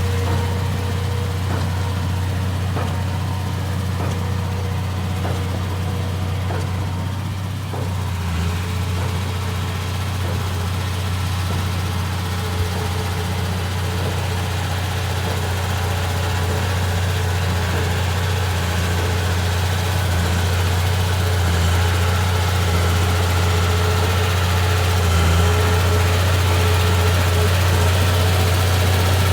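Komatsu D31P bulldozer's diesel engine running steadily at idle, with a deep, constant hum. Faint ticking shows in the first several seconds, and the engine sound gets a little brighter and louder in the last third.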